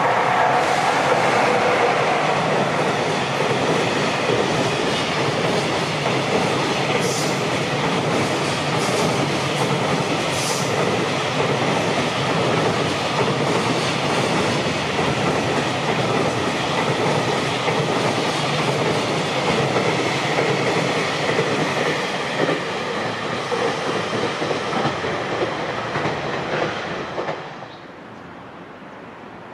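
JR Freight EF66 electric locomotive and its train of container wagons passing close by, with a steady loud rumble and rattle of steel wheels on rail and a few sharp clicks. It is loudest as the locomotive goes by and cuts off abruptly near the end, leaving only faint background.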